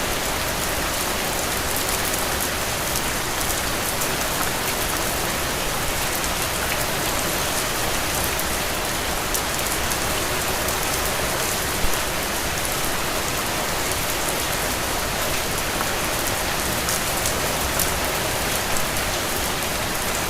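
Steady rain falling, an even hiss with many individual drops ticking sharply, and a few louder drop hits about halfway through and near the end.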